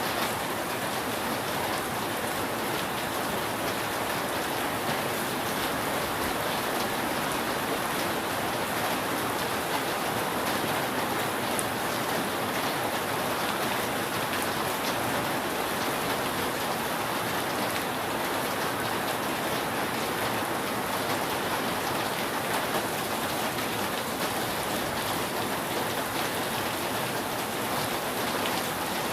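Steady rain falling on a roof, an even hiss without pauses.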